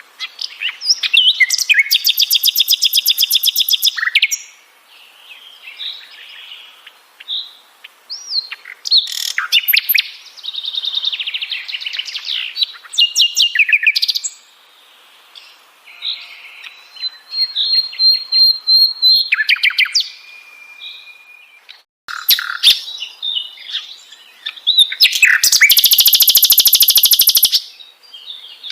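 Sikatan londo, a flycatcher, singing a varied song of chirps and clear whistles, broken by short pauses, with a long fast trill about a second in and another near the end.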